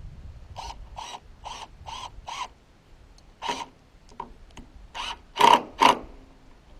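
Hammer blows: five even strikes about two a second, then a pause and several more spaced strikes, the two loudest near the end.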